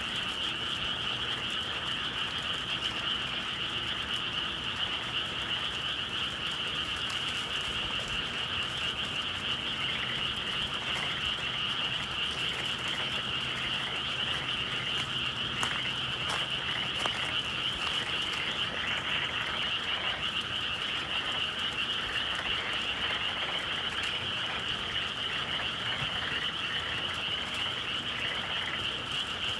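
A dense chorus of many frogs calling steadily on a spring evening. A few faint clicks come through around the middle.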